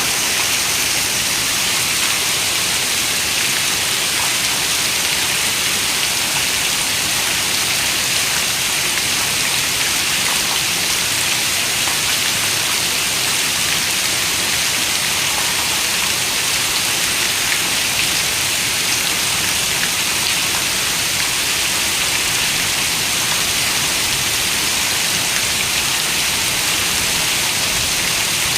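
Steady rain falling: a continuous, even, bright hiss that holds the same level throughout.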